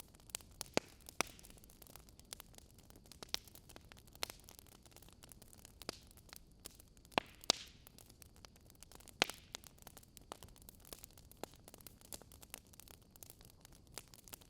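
Wood fire crackling: irregular sharp pops and snaps over a soft hiss. The loudest pops come about a second in, a pair a little past seven seconds in, and one past nine seconds.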